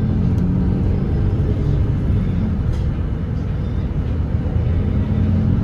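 Volvo B8RLE double-decker bus's diesel engine running steadily while cruising at expressway speed, a continuous low drone that eases slightly midway and firms up again near the end, with faint rattles.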